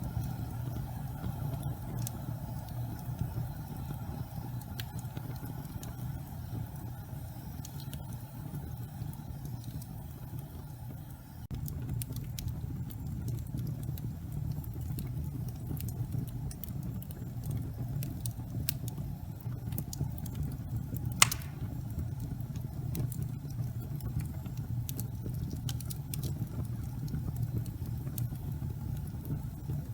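Fireplace fire burning with a steady low rumble of flame and scattered crackles, which come more often from about halfway through, and one sharp loud pop a little after that.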